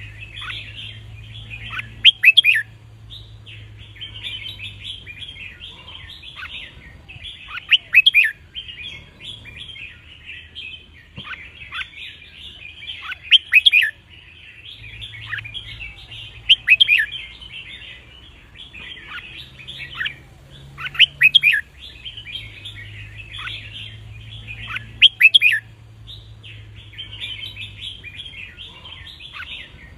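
Red-whiskered bulbul song: loud, short song phrases repeated about every four seconds over steady chirping chatter from other birds.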